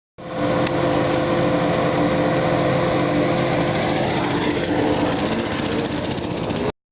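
A motorcycle engine running steadily with a fast, even beat, starting and cutting off abruptly.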